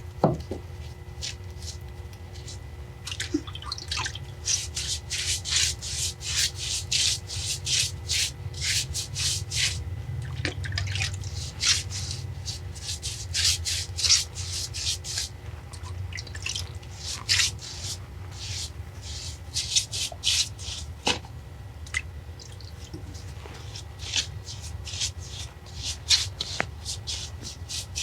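Water being splashed and worked onto an old brick and stone foundation wall in quick, irregular wet strokes and drips, soaking the masonry so it will not draw the water out of the new mortar. A low steady hum runs underneath.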